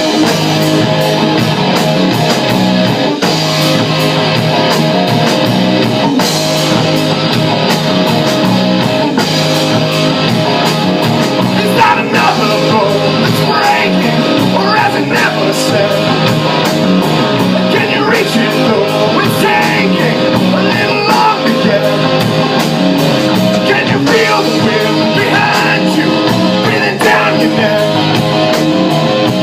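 Loud rock music with electric guitar and drums, in an instrumental passage between sung lines.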